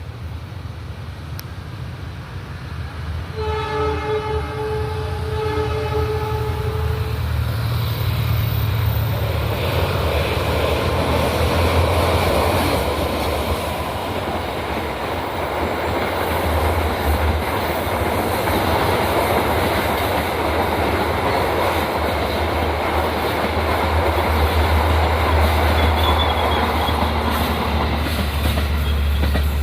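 Diesel-electric locomotive sounding its horn for about four seconds, then the train running past: steady engine rumble and the noise of its wheels on the rails.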